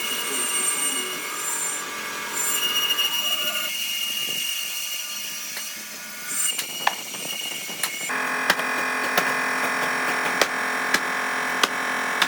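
Woodworking machinery running with a steady whine that shifts in pitch and character a few times. In the last few seconds a series of sharp ticks or knocks sounds over it.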